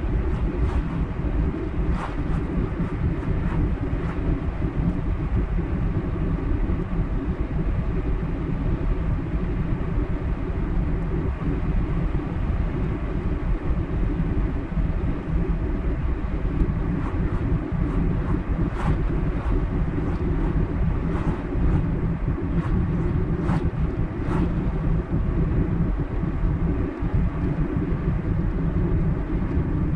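Car driving along a highway: steady low road and engine noise, with a few faint ticks.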